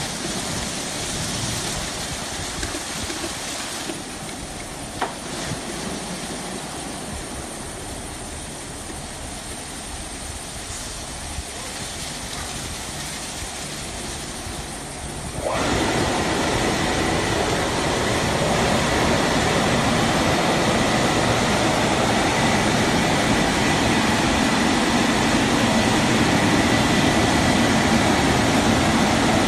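Tunnel car wash machine running, a steady rush of spraying water and machinery that steps up sharply about halfway through to a louder stage with a faint high whine.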